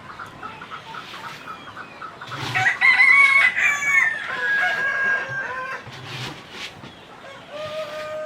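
Roosters crowing, several long calls overlapping from about two seconds in, and another long crow starting near the end, over chickens clucking.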